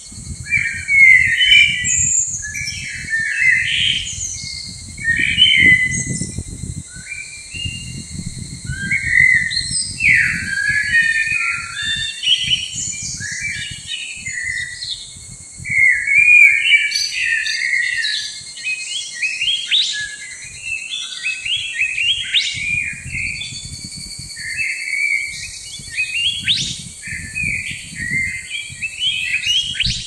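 Birds chirping and whistling nonstop, many short calls overlapping, over a low uneven rumble.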